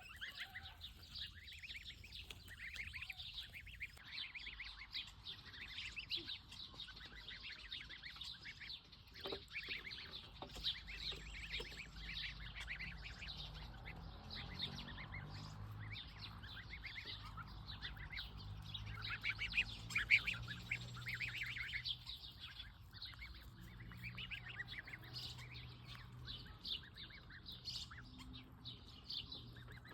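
Birds chirping without pause, many short high calls overlapping. A faint low hum sits under them from about twelve seconds in.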